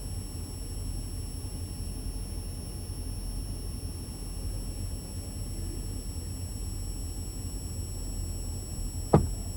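Idling truck engine giving a steady low rumble, with one sharp knock near the end.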